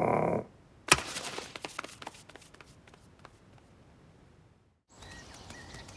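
Cartoon sound effects: the tail of a loud held sound cuts off about half a second in, then a sharp hit just under a second in is followed by a second of scattered clicks and rattles that die away, with faint ticking after.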